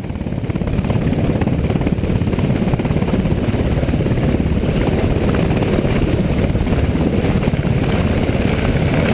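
MH-60R Seahawk helicopter's rotor and engines running, a loud, steady chopping noise that swells in over the first second.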